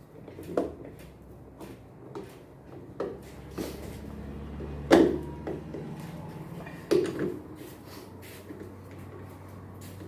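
Intermittent knocks and clinks of tools and parts being handled while fastening a washing machine's counterweight bolts. The loudest knock comes about five seconds in, with another pair about two seconds later.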